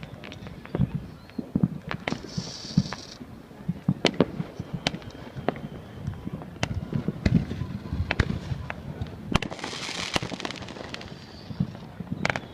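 Fireworks going off all around, an irregular string of sharp bangs and pops, some loud and close, others faint and distant. There are two short stretches of high hissing, one about two seconds in and a longer one near ten seconds.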